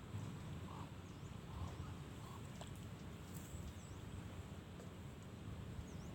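Outdoor ambience: a faint, steady low rumble with small high bird chirps, each dipping and rising, repeating every second or so, and a few light clicks.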